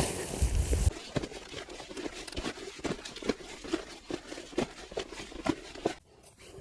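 Light, irregular crackling and tapping of dry leaves and twigs on the forest floor, a few taps a second, after about a second of louder rustling at the start.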